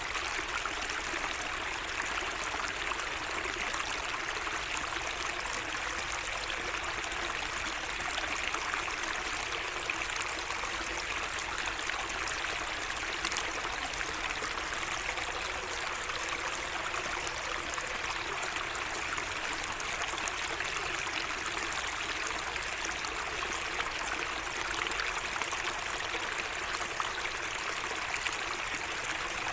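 Water of a small garden waterway flowing and trickling steadily: an even, unbroken rush.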